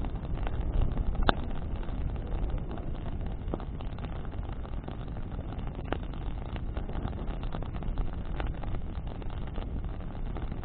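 Bonfire of branches burning in the wind: a steady low rumble of flames and wind, with scattered crackles and a few sharper pops, the loudest about a second in.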